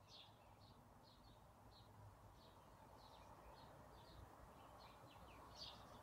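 Faint birdsong: small birds giving many short, high chirps, about two or three a second, over a soft steady background hiss.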